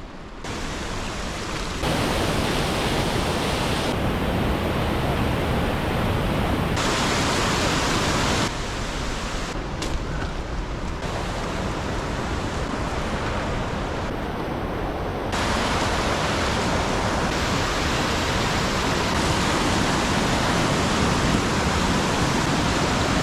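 Steady rushing noise of running water, such as a creek or waterfall. It changes abruptly in tone and loudness a few times, at edits.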